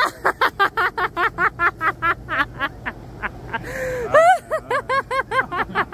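Hard, high-pitched laughter in quick "ha-ha-ha" pulses, about six a second, broken by a gasping breath a little past the middle before another run of laughs.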